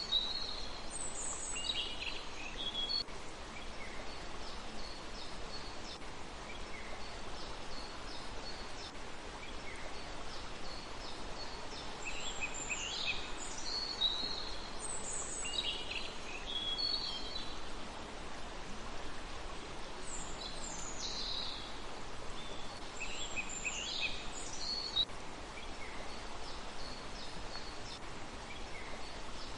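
Small birds chirping and calling in short high bursts, coming in clusters several seconds apart, over a steady background hiss.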